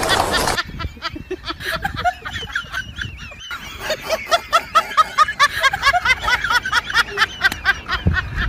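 A bird's short calls repeated in quick succession, sparse at first and then about four a second from about three and a half seconds in.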